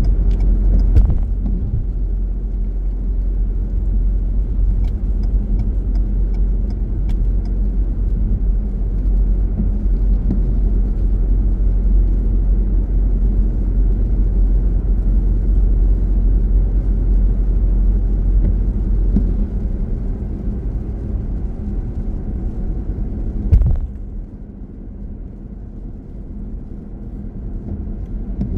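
A car being driven, with a steady low rumble of road and engine noise. There is a thump about a second in and another about 24 seconds in. After the second thump the rumble becomes quieter, as the car slows.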